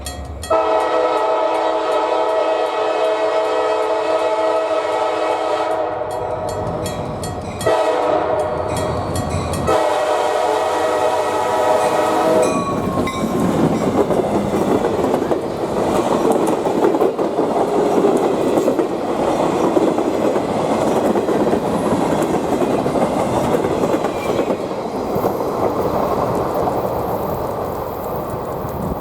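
Multi-chime air horn of an EMD SD40-2 diesel locomotive blowing a loud chord in three blasts, the first about seven seconds long and the next two shorter. The locomotive and train then roll past with a steady roar of engine and wheels on the rails.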